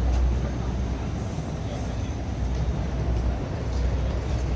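Steady outdoor street background noise with a deep low rumble.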